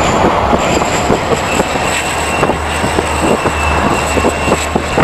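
Train pushing a snow plow through deep snow on the tracks: a loud, dense wash of noise with many rapid knocks and clatter over a steady low hum. A steady high whine joins about one and a half seconds in.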